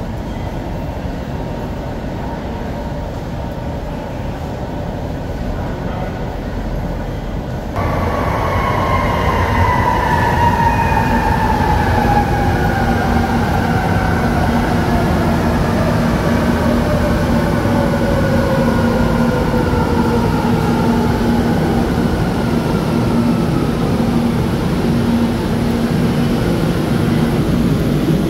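Manila MRT Line 3 electric train running with a steady rumble. About eight seconds in the sound jumps louder, and the traction motors' whine falls steadily in pitch over some fifteen seconds as the train brakes, with a low steady hum underneath later on.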